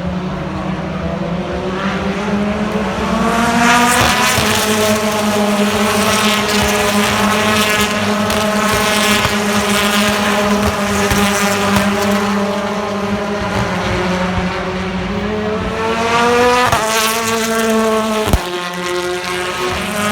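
BTCC touring car's two-litre turbocharged four-cylinder engine at racing speed. The revs climb through the first few seconds and hold high, then rise again and fall sharply at a gear change near the end. A sharp click follows, and the revs settle lower.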